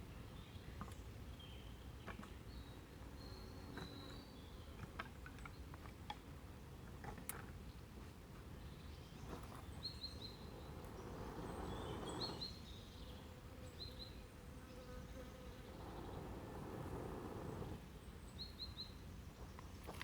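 Quiet woodland ambience: a faint steady insect buzz under short high bird chirps, several in quick groups of three. Scattered small clicks and two swells of rustling noise, about halfway through and again near the end.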